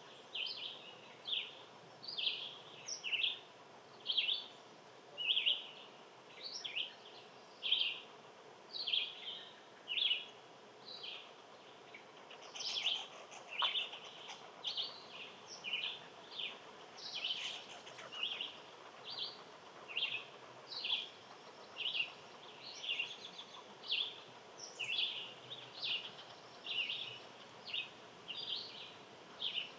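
A small bird chirping over and over: short, high chirps at a fairly even pace of a little over one a second, over a faint steady outdoor hiss.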